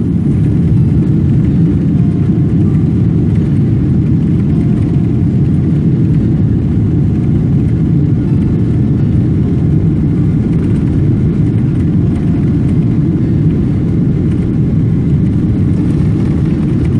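Steady low rumble of a Boeing 777-300's jet engines and rushing air, heard inside the passenger cabin.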